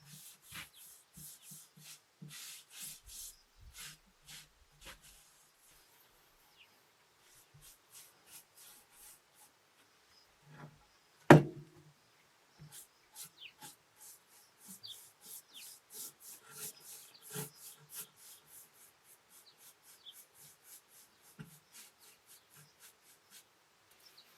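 Paintbrush strokes on wooden furniture, a quick back-and-forth rubbing in runs of short strokes, with one sharp knock about halfway through.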